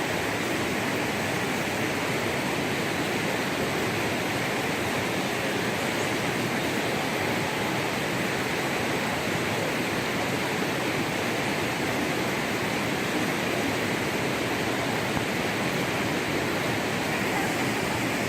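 Steady rush of fast-flowing river water, an even noise with no break or change.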